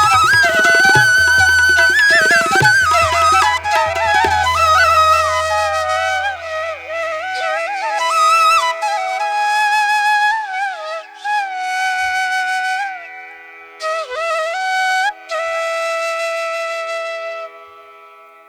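Background music: a solo flute plays a slow, ornamented melody with sliding pitch bends. A low steady drone and a few soft drum strokes sit under the first few seconds, and the drone fades away about halfway through. The music gets quieter near the end.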